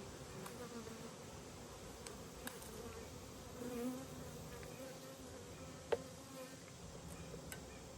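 Swarm of honeybees buzzing around an opened hive: a steady hum whose pitch wavers as bees fly past close by. The beekeeper takes the bees to be agitated by the hive move. A few sharp clicks cut through, the loudest about six seconds in.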